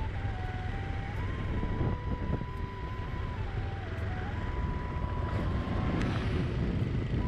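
Steady low rumble of a motor scooter ride, with wind buffeting the microphone. A thin single-line melody of background music steps from note to note over it.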